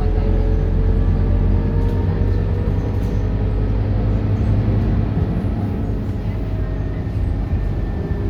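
Scania K230UB Euro 5 bus's five-cylinder diesel engine running under way, a steady low drone whose pitch eases slightly downward over the first few seconds.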